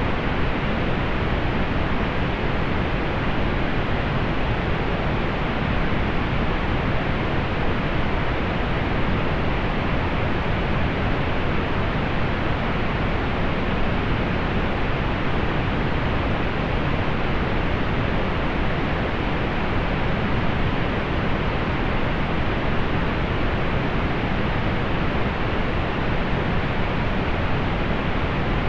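Steady synthetic pink noise: an even, unchanging hiss, fuller in the low end and rolled off in the highs.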